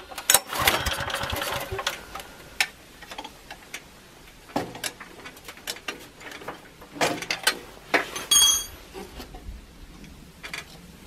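Small generator engine with a mismatched ignition coil turning over briefly in a fast rattle, then stopping about two seconds in. Scattered clicks and knocks of handling follow, with a ringing metal clink near the end.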